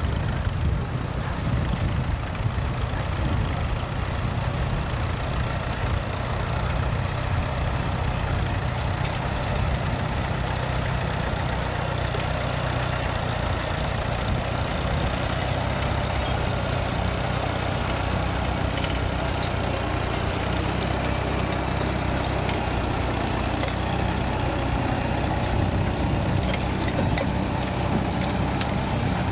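Vintage tractor engine running steadily at low speed.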